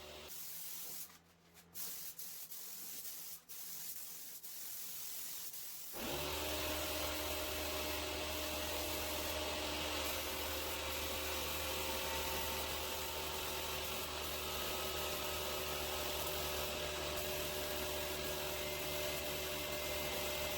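Air-powered paint spray gun hissing as it lays down a coat of automotive clear coat. About six seconds in, a motor starts and runs underneath with a steady hum.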